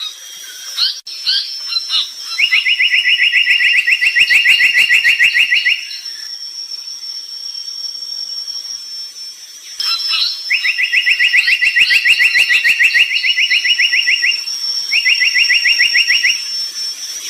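A brown tali pocong bird singing: three bouts of a fast, evenly pulsed trill, the first and second lasting about three to four seconds, with short chirps in between. A steady high thin whine runs underneath.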